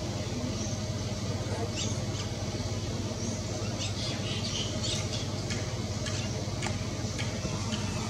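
Birds giving short, high squeaky chirps, scattered irregularly from about two seconds in, over a steady low rumble.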